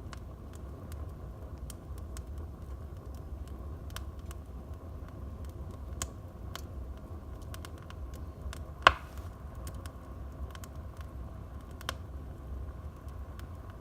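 Wood fire burning in a fireplace: many scattered crackles over a steady low rumble of the flames, with one loud sharp pop about nine seconds in.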